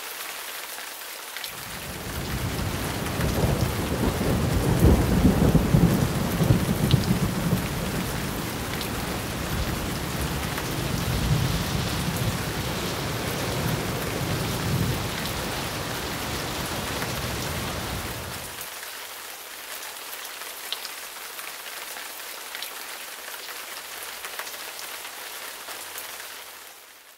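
Steady rain falling, with a long rolling rumble of thunder that builds a couple of seconds in and dies away about two-thirds of the way through, leaving only the rain.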